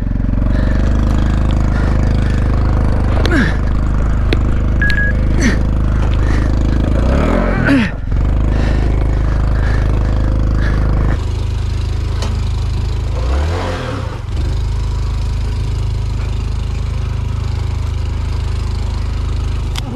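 Small single-cylinder trail motorcycle engine working hard up a steep climb, its revs dipping and picking up again a few times.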